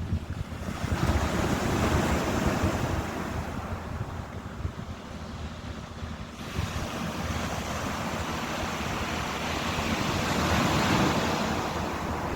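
Ocean waves breaking and washing ashore, swelling and ebbing, loudest about two seconds in and again near the end, with wind on the microphone.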